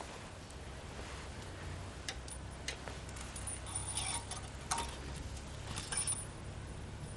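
Several light metallic clicks and clinks, scattered irregularly over a few seconds, as of tools or small metal parts being handled, over a low steady hum.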